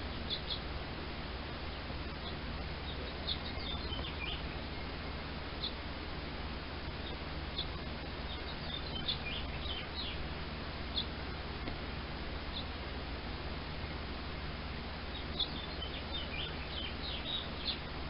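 Baby birds chirping in short high peeps, coming in scattered clusters, with a busier flurry near the end, over a steady background hiss.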